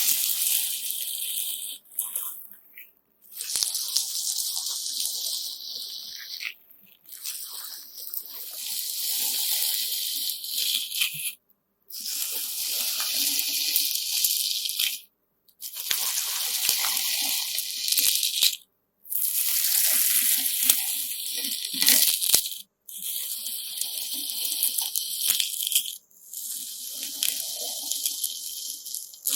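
Slime mixed with coloured sand being squeezed and kneaded by hand, making a gritty, crunchy crackle with wet squishing. It comes in takes a few seconds long, broken by brief silences.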